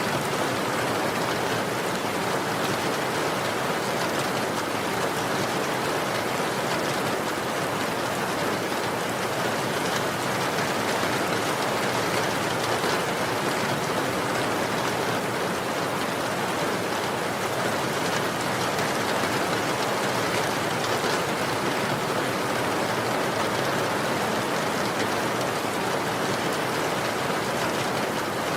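Steady rain falling, an even hiss of many drops with faint pattering on a surface.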